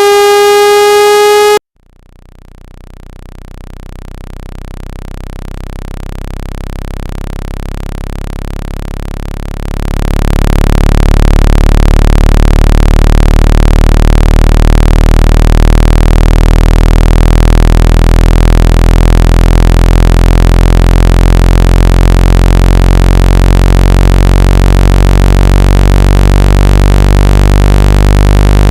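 Generated tones for shaking water out of a phone speaker. A loud tone with overtones glides slightly upward and cuts off abruptly after about a second and a half. Then a low, buzzy tone fades in, jumps louder about ten seconds in, and holds steady.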